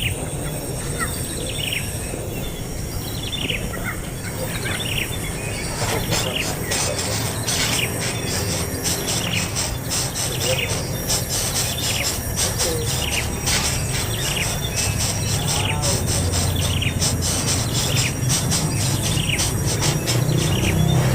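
A bird giving short falling chirps over and over, roughly one every second, against steady high insect buzzing; from about six seconds in a fast-pulsing insect trill joins.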